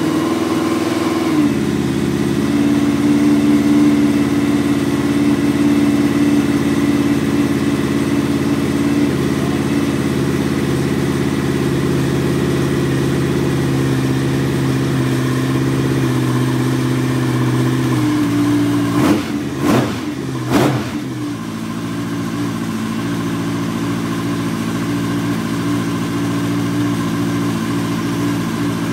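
Suzuki GSX1400 inline-four motorcycle engine running on its first start after years of storage. It settles to a steady idle soon after catching, and gets three quick throttle blips about two-thirds of the way through. It runs with a rattle that the owner thinks comes from the cylinder head.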